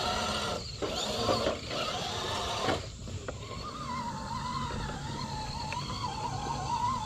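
Electric motor and drivetrain of a 6x6 RC crawler truck whining. The whine sets in about three seconds in and wavers slowly up and down in pitch as the throttle changes.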